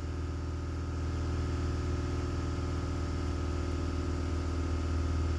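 Steady low machine hum with a faint, constant high tone, unchanging throughout.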